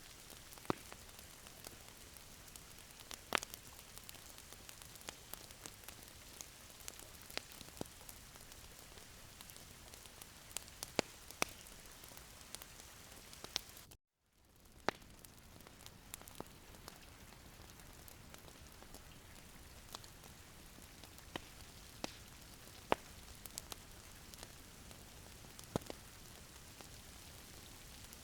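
Wood fire in a fireplace crackling: a steady soft hiss with irregular sharp pops. About halfway through, the sound cuts out completely for a moment and then fades back in.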